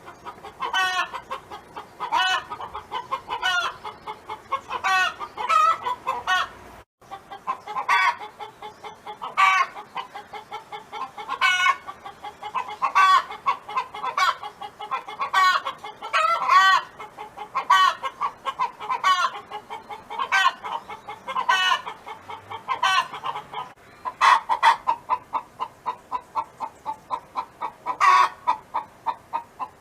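A chicken hen cackling: a rapid, steady string of short clucks, broken every second or two by a louder, drawn-out call.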